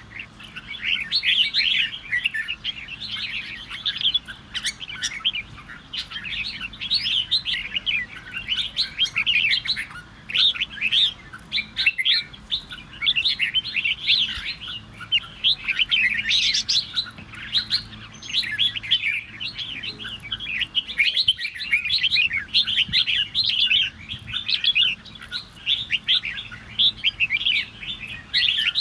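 Red-whiskered bulbuls singing their rival, competitive song in fast, overlapping phrases with hardly a pause. This is the kind of song played to provoke a pet bulbul into singing back.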